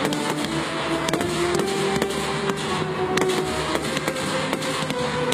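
Fireworks display: aerial shells bursting with frequent sharp bangs and crackles, over music playing steadily underneath.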